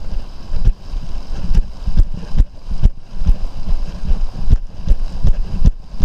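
Wind buffeting the microphone: irregular low rumbling gusts and thumps.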